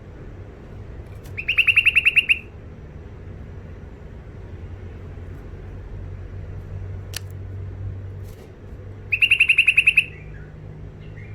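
Wild-caught bulbul giving two quick rattling chatters, each a fast run of about a dozen harsh notes lasting under a second, some eight seconds apart, over a low steady hum. A single sharp click falls between them.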